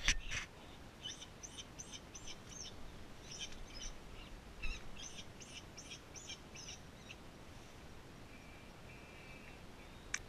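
A sharp knock at the very start, then a bird chirping: a run of short high chirps, about three a second, for several seconds, followed by a few short, steady high notes.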